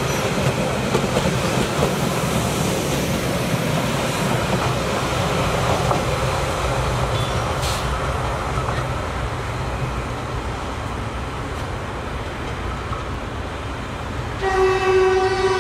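Bangladesh Railway DEMU (diesel-electric multiple unit) commuter train running along the track, with a steady rumble and wheel clatter on the rails. Near the end its horn sounds one long, steady blast.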